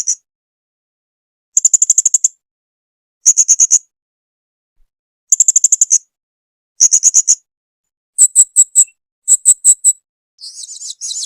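Blue-crowned hanging parrot (serindit) calling: short bursts of rapid, high-pitched chirps, one about every second and a half. Near the end the notes turn higher and sharper, then run into a thin, buzzy chatter in the last second.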